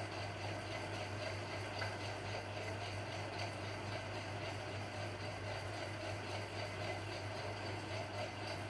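Chopped vegetables sizzling steadily in hot oil in a kadhai, with faint crackles, over a steady low hum.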